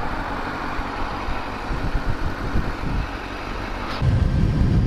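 Kawasaki ZX-6R sport bike's inline-four engine running at low speed. About four seconds in, a louder low rumble comes in and holds.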